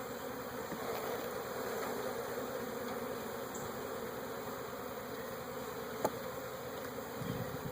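Honey bees from an open hive buzzing in a steady drone. A single sharp click sounds about six seconds in.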